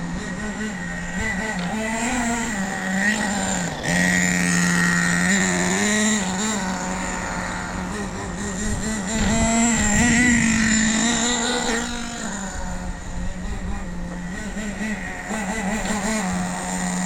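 Hot Bodies .18 nitro engine in an RC car running, its pitch rising and falling with the throttle, louder around four to six seconds in and again around ten seconds in.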